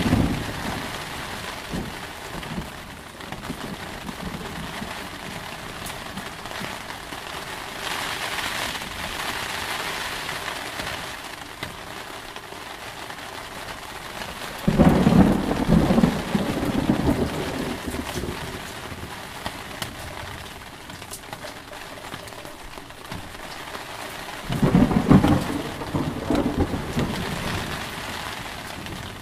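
Steady heavy rain falling throughout, with two claps of thunder that start suddenly and rumble for a few seconds each, about halfway through and again near the end.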